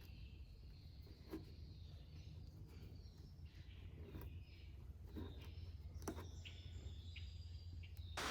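Quiet background: a steady low hum with a few faint, scattered light clicks and faint high chirps.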